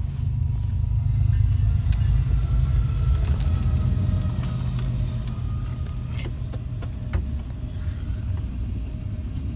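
Trains running past on the line: a loud, steady, deep rumble, with a few sharp clicks and a faint high tone held for a few seconds in the middle.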